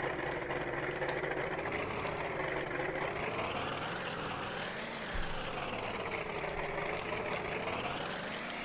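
Vehicle engine running while it is manoeuvred and backed up, the revs rising and falling several times.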